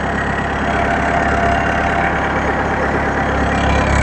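Sunward SWE50 mini excavator's diesel engine idling steadily, running normally now that its battery relay has been replaced to cure hard starting.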